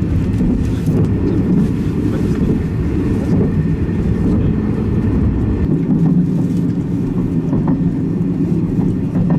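Sleeper train carriage running: a steady low rumble heard from inside the carriage, its deepest part easing a little about halfway through.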